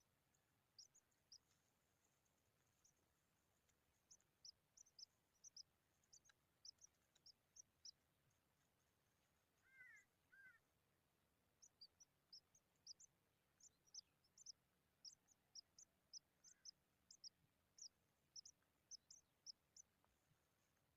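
Faint bird chirping: many short, thin, very high-pitched calls in quick runs, with a lower two-note call about ten seconds in.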